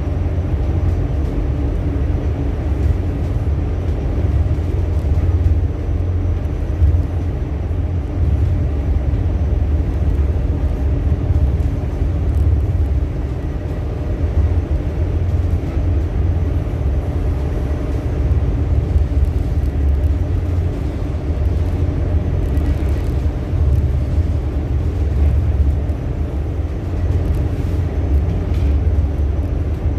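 Steady low rumble of a ship's engines, with a faint, even machinery hum over it.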